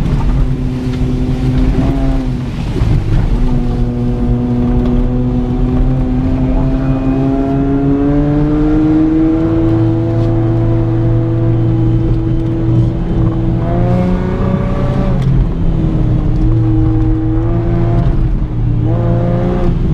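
Honda V6 with custom stainless headers, a straight pipe and a Cherry Bomb muffler, heard from inside the cabin while driving in low gear. The engine note dips briefly about two seconds in, then climbs slowly over several seconds and holds steady, with a few more small dips and rises near the end.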